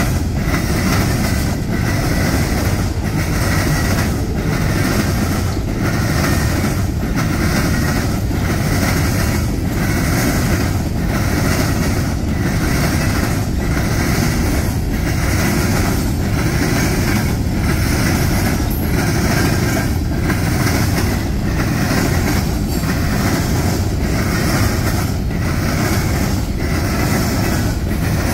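Freight train of coal gondola cars rolling past, steel wheels running over the rails in a steady clatter with a regular beat a little faster than once a second.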